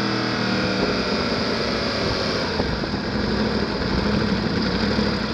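Sport motorcycle engine heard from on board, slowing off the throttle. Its note breaks up about a second in and settles into a low, steady run from about halfway, under a constant rushing noise.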